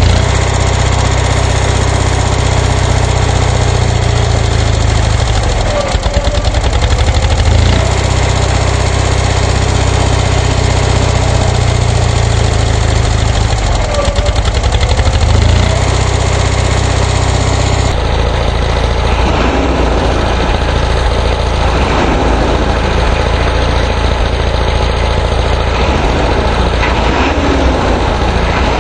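International 6.9L IDI diesel V8 running cold shortly after a cold start. The engine speed dips and swells briefly twice.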